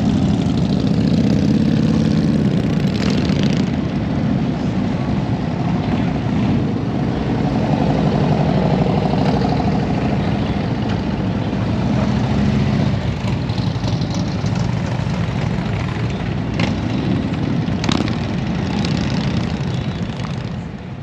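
Motorcycle engine running steadily, fading out near the end.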